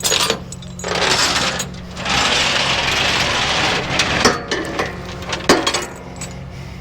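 Tow truck engine running steadily, with a stretch of loud hissing noise from about two to four seconds in and a few sharp clicks after it.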